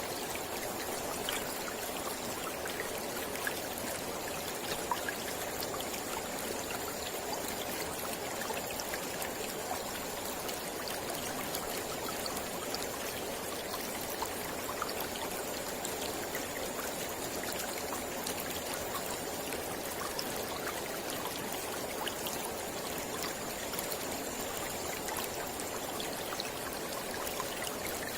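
Mountain river flowing steadily, a continuous rush of water flecked with small splashes and droplet ticks.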